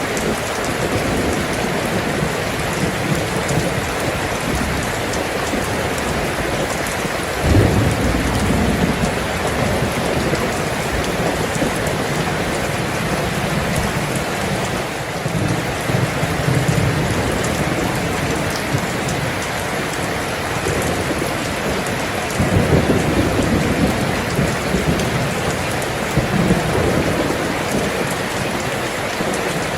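Steady heavy rain falling, with low rumbles of thunder rolling in four times.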